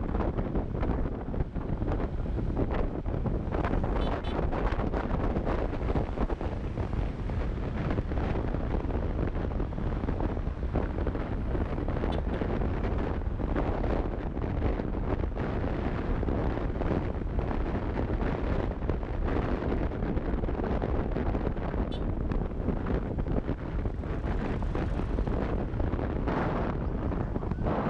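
Wind buffeting the microphone of an action camera on a moving motorcycle: a steady, dense rumble with constant fluttering.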